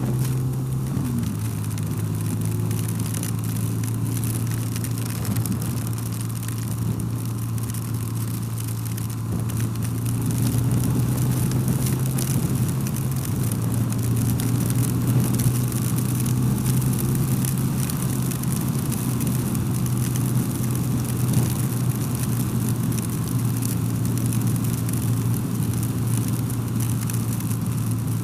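BMW R12 motorcycle's boxer-twin engine running steadily while riding, with a hiss of wind and road noise; the engine gets a little louder about ten seconds in.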